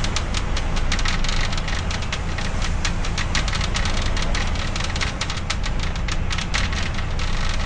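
Strong gusting wind buffeting the microphone in a constant low rumble, with rapid irregular clicking and pattering on top.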